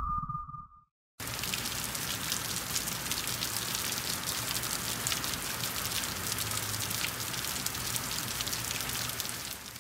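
Steady rain falling on a surface, a dense even patter that starts about a second in and cuts off at the end. Before it, the tail of a short electronic beep dies away.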